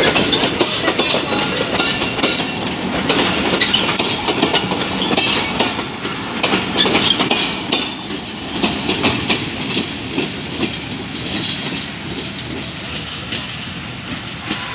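Passenger coaches rolling past close by, wheels clattering over rail joints with thin high squeals. The clatter grows fainter in the second half as the last coaches go by.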